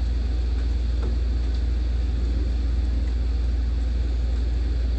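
Heavy rain pouring in a thunderstorm: a steady, even hiss over a constant low rumble.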